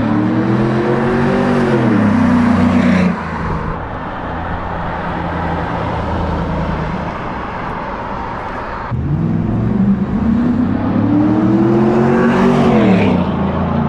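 2003 Chevrolet SSR's 5.3-litre V8 with a Corsa exhaust accelerating past, twice: the engine note climbs under throttle and then falls away, once at the start and again from about nine seconds in, with a quieter steady stretch between.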